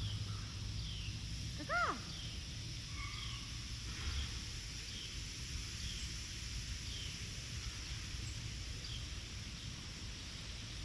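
Bird calls: one short note that rises and falls about two seconds in, then faint high chirps repeating roughly once a second, over a steady low rumble.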